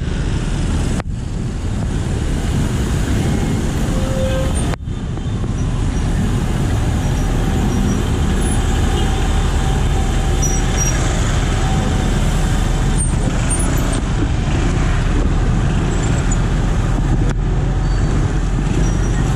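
Steady, loud road traffic noise of cars, trucks and buses, heard from a bicycle riding in traffic, with two brief dips in level about a second and five seconds in.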